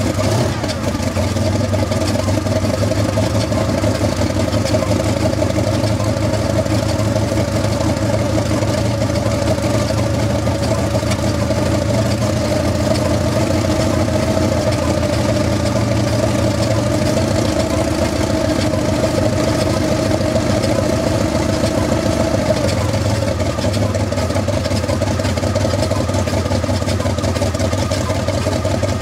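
Kamov Ka-26 helicopter's Vedeneyev M14V-26 nine-cylinder radial piston engine running steadily.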